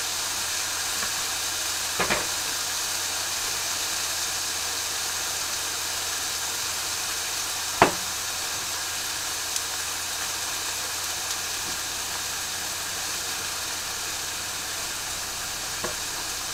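Chicken pieces sizzling in a frying pan: a steady hiss, with two sharp knocks about two and eight seconds in, the second the loudest.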